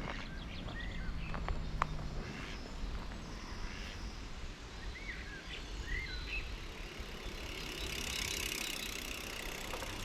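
Outdoor ambience: a few short bird chirps, several near the start and a pair about halfway through, over a steady low rumble of wind and background noise.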